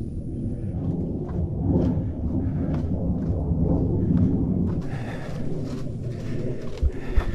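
A hiker's footsteps on a trail, regular footfalls, over a steady low rumble.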